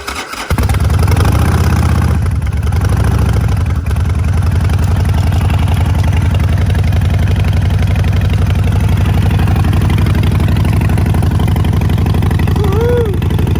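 2014 Harley-Davidson Sportster 48's air-cooled V-twin, fitted with Vance & Hines Short Shots exhaust, catches about half a second in on a cold start after sitting all winter. It then idles loud and steady through the short pipes.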